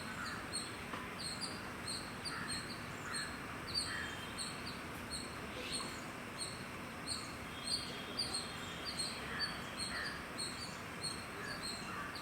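Small birds chirping: a steady run of short, high chirps repeating every half second or so, with a few fainter, lower calls among them over soft outdoor background noise.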